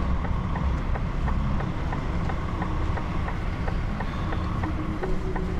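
Diesel engine of a heavy goods lorry running at low revs, heard from inside the cab, with a steady light ticking at about three ticks a second over the engine sound.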